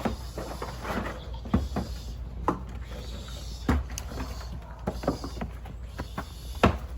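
Irregular knocks and clunks of hard objects being bumped or set down, about a dozen over several seconds, some heavier than others.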